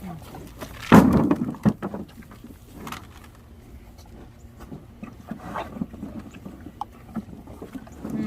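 Belted Galloway cattle chewing apples and carrots, with irregular crunches and knocks. A loud rustling thump comes about a second in.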